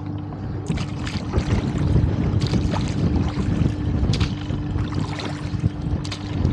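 A gust of wind buffeting the microphone on an open rowboat, a low rumble that strengthens about two seconds in as the gust arrives, with a few sharp knocks scattered through it.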